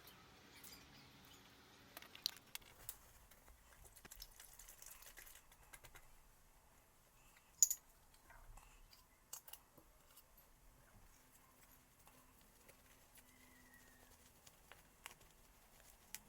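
Quiet room tone with scattered small clicks and taps; the sharpest comes about halfway through.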